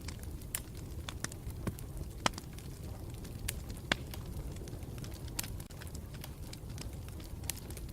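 Wood campfire burning: a steady low rumble under irregular sharp crackles and pops, the strongest about two and four seconds in.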